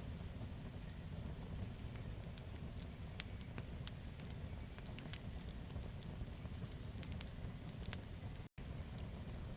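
Campfire burning, with irregular sharp crackles and pops over a low steady rumble. The sound cuts out for a split second near the end.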